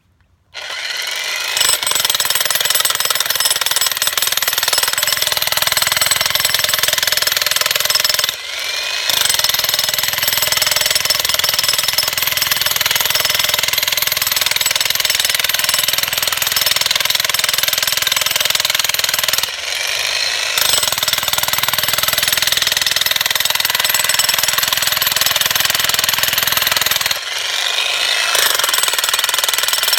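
Jackhammer hammering into stone. It starts about half a second in and runs steadily, stopping briefly three times before starting again.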